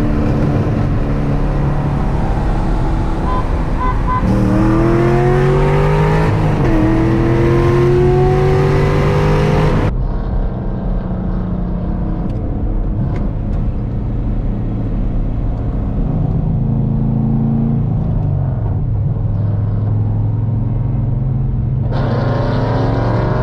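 Car engine accelerating hard, its pitch rising, dropping at a gear change and rising again. After an abrupt cut, an engine runs more steadily at lower revs, with a few gentle rises and falls in pitch.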